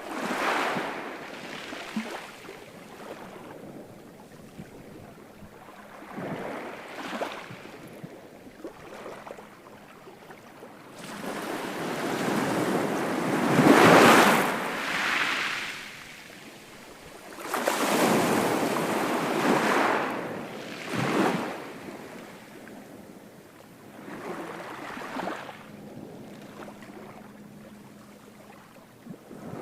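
Ocean surf: waves breaking and washing up the shore in slow surges every few seconds, the loudest crash about halfway through.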